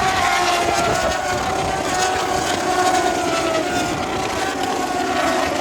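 Moto2 race motorcycles' Triumph 765 three-cylinder engines running at high revs on the circuit, a steady high engine note that slowly falls a little in pitch.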